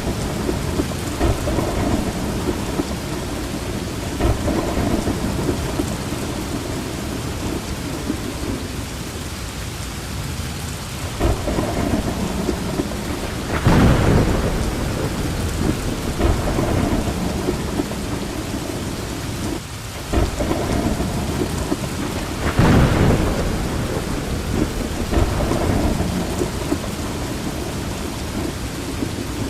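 Steady heavy rain with rolling thunder, which swells louder about halfway through and again near the end.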